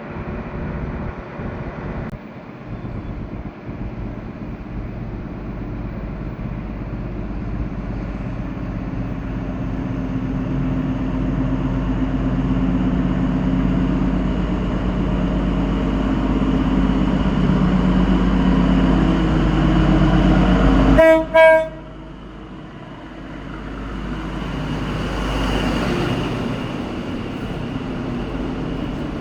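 XPT diesel power car engine running with a steady hum that grows gradually louder, then a short train horn blast about two-thirds of the way through. Right after the horn the engine sound drops away abruptly, and a quieter rushing train noise swells and fades.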